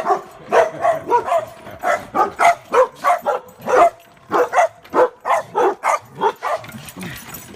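Dogs barking over and over, a quick run of short barks at roughly three a second, which stops near the end.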